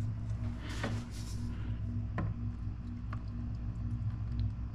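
Full-synthetic motor oil pouring from a 5-litre jug into the engine's oil filler, with a brief gurgling rush about a second in and a few light clicks, over a steady low hum.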